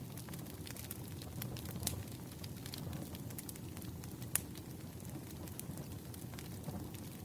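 Wood fire crackling: a steady low rumble with irregular sharp pops and snaps, the loudest about four seconds in.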